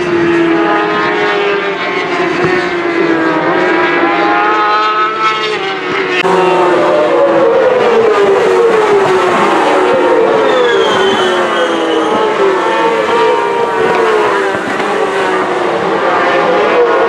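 Racing engines at speed, several at once, their pitch sliding up and down as they rev and change gear. The sound changes abruptly about six seconds in.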